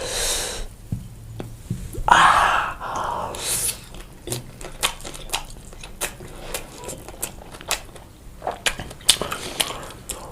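Close-miked eating of pizza: bites and chewing with many sharp wet mouth clicks. There are two short, louder noisy bursts near the start and about two seconds in.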